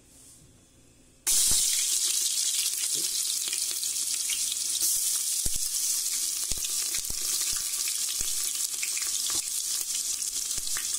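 Sliced onion hitting hot oil in an aluminium pressure cooker, sizzling loudly from a sudden start about a second in and frying steadily on, with a few small clicks.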